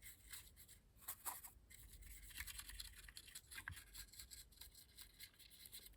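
Faint, irregular scratching of a paintbrush's bristles worked over a model locomotive's underframe, with a few light ticks.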